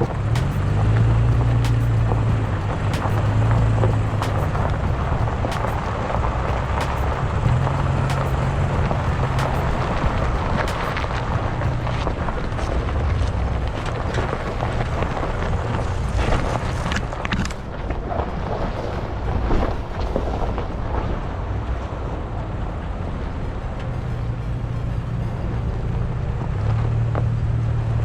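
Third-generation Toyota Tacoma driving off-road on a rocky trail, its engine running with a low hum that swells and eases every few seconds over steady tyre and road noise. A few sharp knocks come about two-thirds of the way through.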